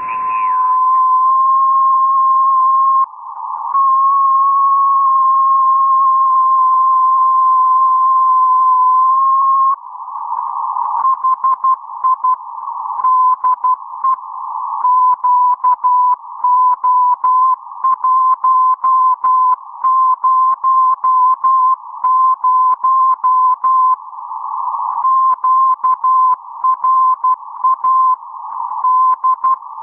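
A Morse code (CW) signal received through the QO-100 satellite's amateur transponder and demodulated by an RTL-SDR receiver. It is a single tone of about 1 kHz, held steady for about ten seconds and then keyed on and off in Morse, over a faint band of receiver hiss.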